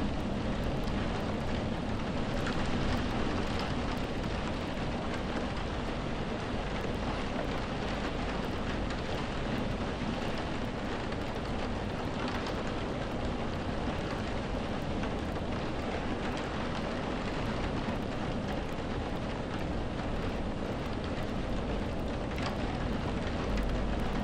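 Steady rain, an even unbroken hiss of falling rain with a low rumble underneath.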